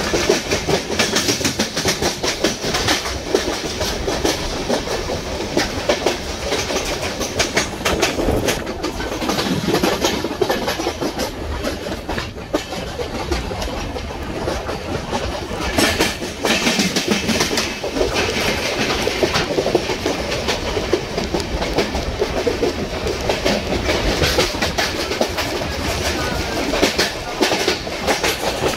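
Passenger express train running along the track, its wheels clattering over the rails in a steady stream of quick clicks over a continuous running noise.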